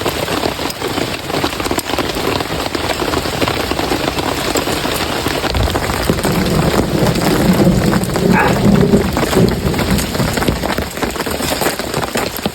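Heavy tropical rain pouring steadily, a dense patter of drops hitting surfaces close by. A deeper, low rumbling stretch rises about six seconds in and eases off near ten seconds.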